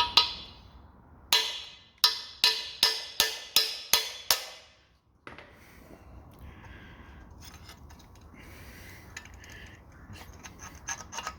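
About nine sharp, ringing metal-on-metal hammer blows, coming faster to two or three a second, knocking a corroded steel core plug out of a Ford Pinto's cast-iron engine block; then quieter scraping and rubbing as the plug is worked loose.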